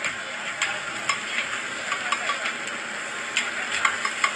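Oyster omelette batter with oysters and egg frying on a hot flat griddle: a steady sizzle with scattered sharp clicks.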